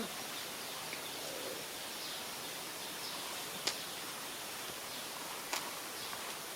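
Steady outdoor ambient hiss with two sharp clicks, about three and a half and five and a half seconds in, and a few faint bird chirps.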